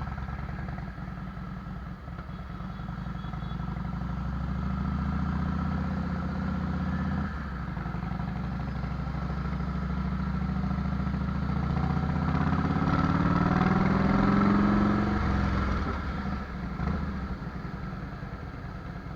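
Harley-Davidson Fat Boy's V-twin engine through a Vance & Hines fishtail exhaust, rising in pitch and loudness under throttle. It dips briefly about seven seconds in, climbs again to its loudest, then eases off about fifteen seconds in.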